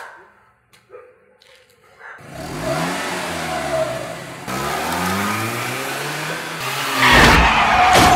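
A few faint footsteps, then from about two seconds in a car engine revving hard as the car accelerates, its pitch climbing in repeated sweeps through the gears. About seven seconds in a loud, harsh burst of noise with a sustained squeal takes over.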